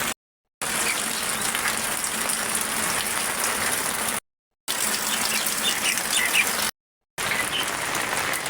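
Steady rush of heavy water, from rain and running runoff, as an even hiss. It cuts to dead silence for about half a second three times.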